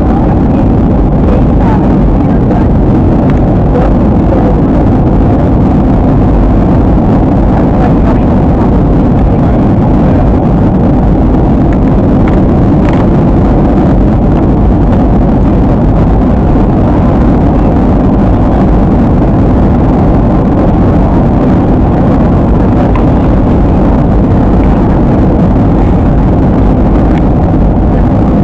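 Jet airliner cabin noise in flight: a loud, steady rumble of engines and rushing air heard from inside the cabin, with no change in pitch.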